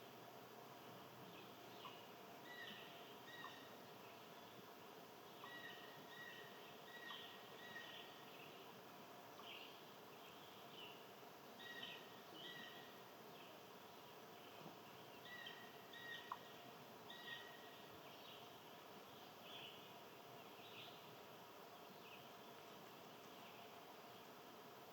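Faint outdoor ambience of small birds chirping: short high notes come in loose clusters every few seconds over a steady low hiss.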